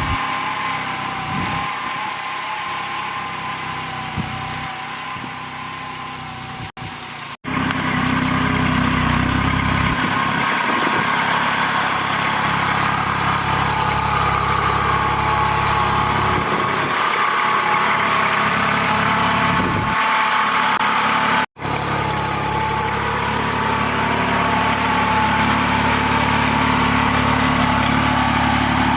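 Kubota A211N compact tractor's diesel engine running steadily. It grows louder about seven seconds in, and the sound cuts out abruptly for an instant twice.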